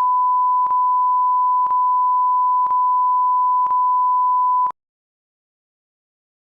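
Steady single-pitch reference test tone at the head of the programme, broken by a short click about once a second, cutting off sharply near the end.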